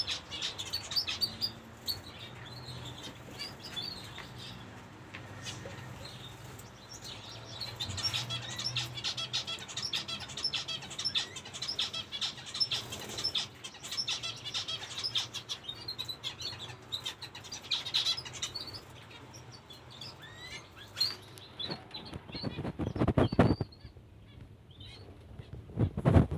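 Zebra finches chirping, many short overlapping calls, with wing flutters; two louder rushes of flapping near the end.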